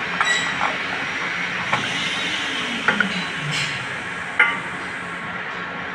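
A few light clicks and taps of metal on metal while an acetylene hose fitting is being fitted, over a steady hiss.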